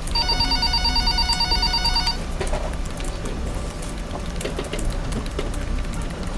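Office telephone giving one electronic trilling ring lasting about two seconds, a little after the start. Under it runs steady office background noise: a low hum and scattered small clicks.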